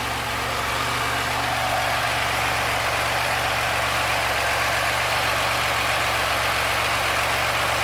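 1987 Oldsmobile Toronado's 3.8-litre V6 idling steadily just under 1,000 rpm, with a roughness and shake that the owner notices even after its maintenance refresh.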